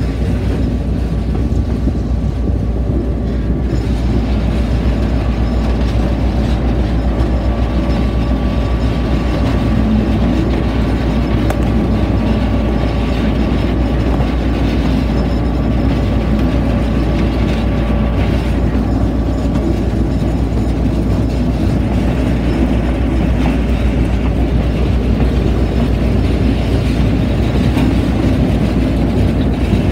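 Moving train heard from the open space at the coupling between a car and the locomotive: a loud, steady rumble of wheels running on rail, with faint steady tones running through it.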